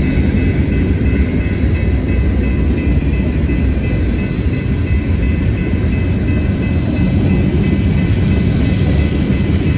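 A train rolling past close by: a loud, steady low rumble of wheels on rail, with faint steady high tones above it.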